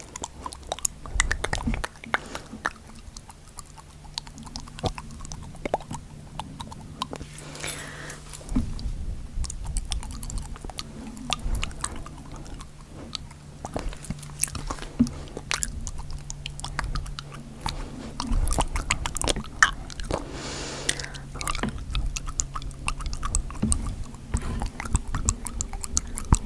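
Close-miked ASMR tongue flicking: quick, irregular wet clicks and smacks of the tongue in the mouth.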